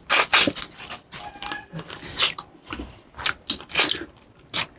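Close-miked eating: a person chewing and crunching food, in irregular crunches with a few louder ones near the middle and end.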